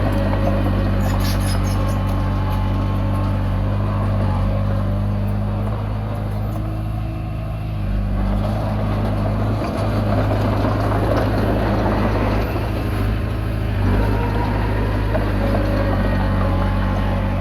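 Komatsu D20P bulldozer's diesel engine running steadily under work, easing off slightly about six seconds in and picking up again a couple of seconds later.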